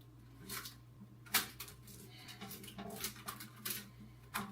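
Rubber bands being stretched and snapped around a watermelon: scattered light snaps and rustles, the sharpest about a second and a half in.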